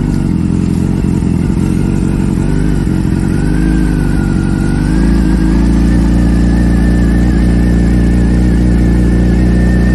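Motorcycle engine running steadily, its pitch and level stepping up about halfway through and then holding, with a thin high whine over the engine note.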